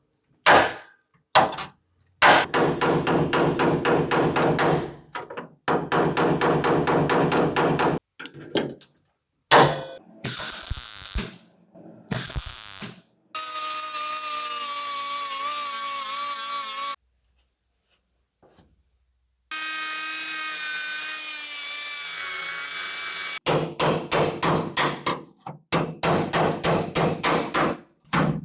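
Power tools working car body sheet metal in several short runs. Some runs have a fast, even pulsing, one carries a steady high whine, and one is a steady hiss, with brief pauses between them.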